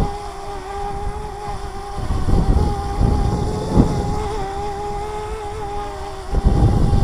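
DJI Mavic Mini quadcopter hovering, its propellers giving a steady, slightly wavering whine. Strong wind gusts rumble on the microphone about two seconds in, briefly louder near four seconds, and heavily near the end.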